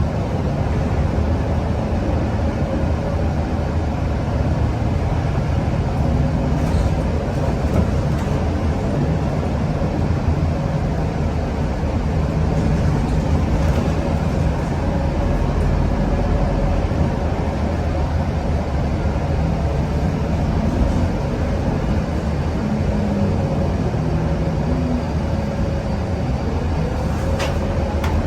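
Scania K230UB Euro V city bus under way, heard from inside: a steady low engine and road rumble with a faint whine that drifts in pitch. There is a brief click near the end.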